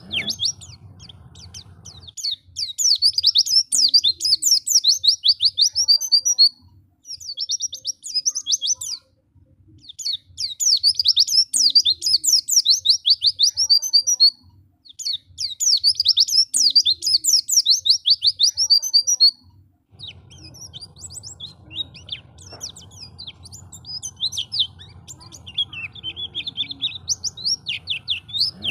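White-eye (pleci) singing: long bursts of rapid, high twittering lasting several seconds each, separated by short pauses. In the last third the chirps turn softer and scattered over a faint low hum.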